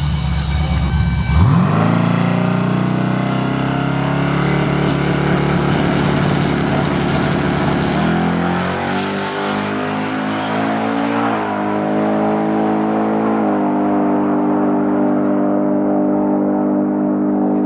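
Turbocharged drag-racing pickup truck launching at full throttle, its engine pitch rising sharply, then pulling hard down the strip. The pitch changes in steps two or three times as it shifts gears, and the sound grows duller as the truck gets farther away.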